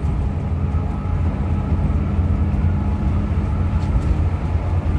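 Hino RM 280 coach running on the road: a steady low engine drone mixed with road rumble.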